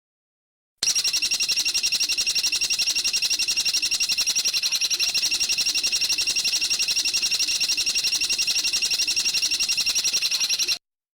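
A bird giving a rapid, high-pitched, metallic trill of evenly repeated notes for about ten seconds, the kind of call played to train caged songbirds. It starts abruptly about a second in and cuts off sharply near the end, as an edited recording does.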